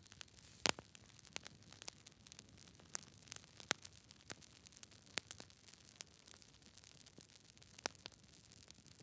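Campfire crackling: wood popping and snapping at irregular moments over a soft steady hiss, with the loudest pop about a second in.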